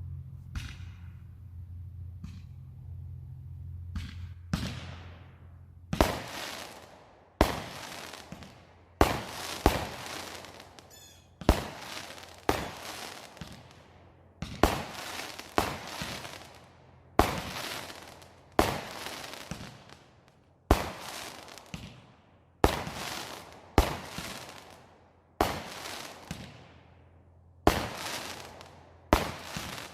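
Fireworks display: a few faint pops at first, then from about six seconds in a steady run of loud bangs, roughly one a second, each trailing off in a long fading echo.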